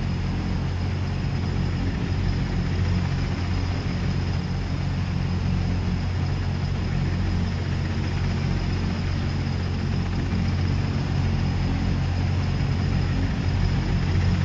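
An engine running steadily: an even low drone with a constant high whine above it.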